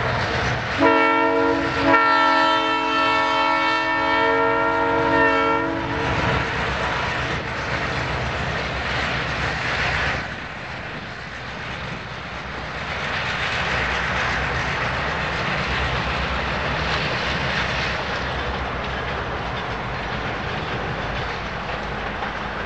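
Diesel locomotive horn sounding a multi-note chord at a grade crossing: a short blast, then a long blast held about four seconds. It is followed by the steady rumble and clatter of the GP38-2 and GP38-3 locomotives and their rail cars rolling past.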